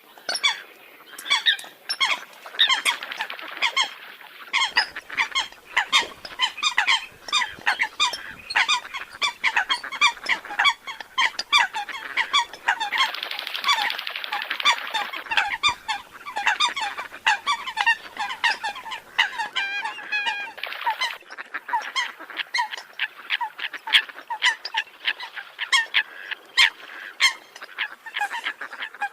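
Eurasian coots calling: a dense, unbroken run of short, sharp honking calls, several a second and often overlapping.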